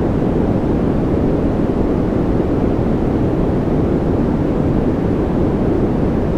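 Continuous generated noise from a white-noise sleep track: a steady, unchanging hiss weighted toward a low rumble, with no events or variation.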